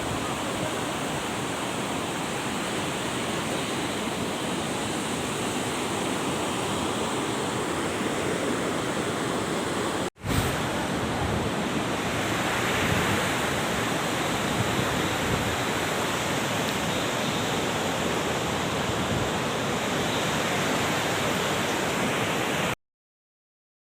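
Steady rush of fast-flowing water, broken by a momentary dropout about ten seconds in and cutting off abruptly just before the end.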